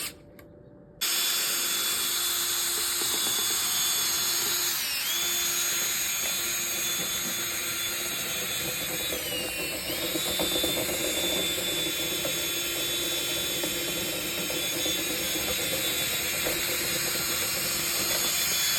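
Power drill spinning a dryer-vent cleaning brush, starting abruptly about a second in and running steadily, its pitch sagging briefly a few times as the brush loads up in the duct.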